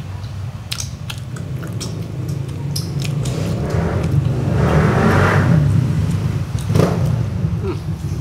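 Chewing on a crispy banana fritter, with crunchy clicks early on, over a steady low rumble that swells and fades about halfway through.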